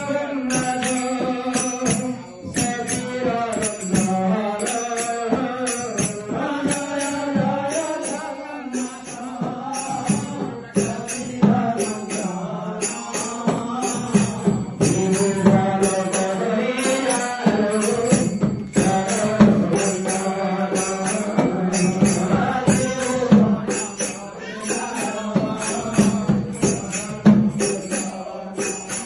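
Nama sankirtan: a group of devotees singing a devotional chant of divine names to a melody, over a steady clinking percussion beat of about two strikes a second.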